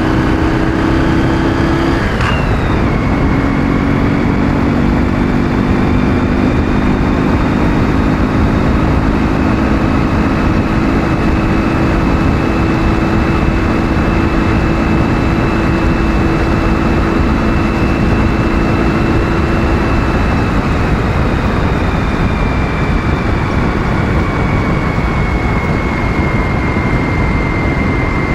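Ural motorcycle's 650 cc flat-twin engine running on the road under heavy wind and road rush. The engine note breaks and drops with a gear change about two seconds in, then holds a steady pull, easing off a little near the end.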